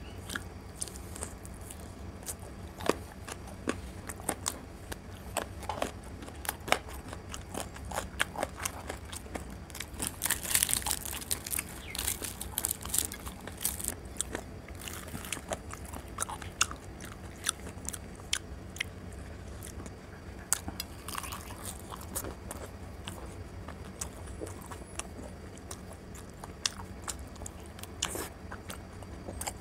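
Close-miked eating of luchi with chicken and egg curry: wet chewing and biting, with many sharp mouth clicks and smacks. A denser stretch of crackling comes about ten to thirteen seconds in, with a steady low hum underneath throughout.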